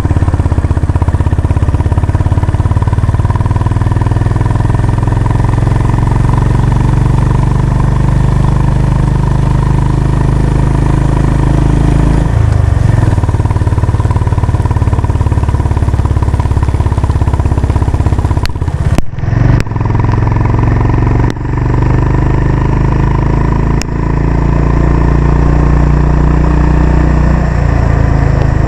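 Honda CB350 RS motorcycle's air-cooled single-cylinder engine running under way, steady and loud. The note dips briefly about twelve seconds in and again near the end, and a few short drop-outs break it a little past halfway.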